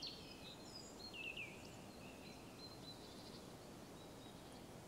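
Faint birds chirping now and then, with short high falling chirps, over a low steady hiss of outdoor ambience.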